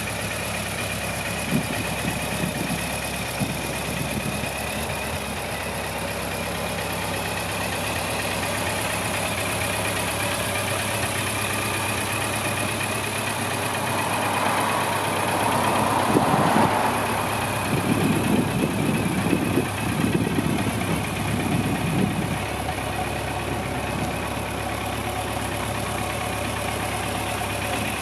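Suzuki GSX1400 K5's inline-four engine idling steadily, with a louder, rougher stretch in the middle.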